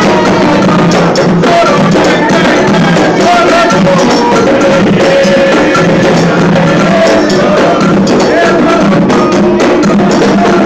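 Candomblé ritual music for Xangô: atabaque hand drums and other percussion playing a steady rhythm under a chanted song, loud throughout.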